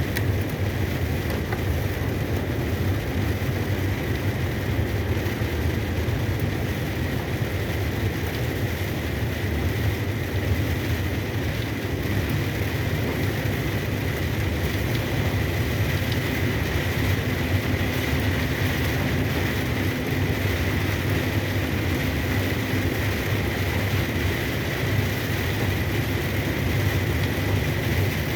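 Cargo truck running steadily on the road, heard from inside the cab: a low engine drone under a constant hiss of tyres on the wet road and rain, with a faint steady high whine.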